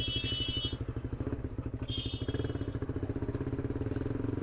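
Suzuki GSX-R motorcycle engine running steadily through a Leo Vince GP Corsa aftermarket exhaust with its dB killer fitted, giving a rapid, even exhaust pulse; with the dB killer in, it is a little less loud than with it removed.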